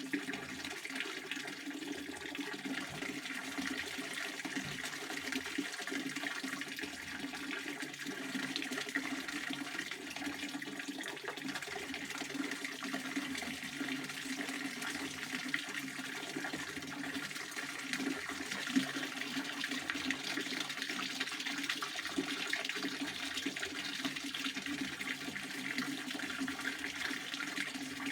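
Pond water fountain splashing steadily, a continuous rush of falling water.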